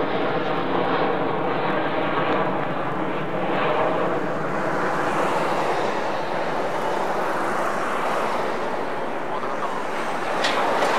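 Turbofan engines of a Boeing C-17 Globemaster III running steadily, a continuous jet rush with a faint tone in it.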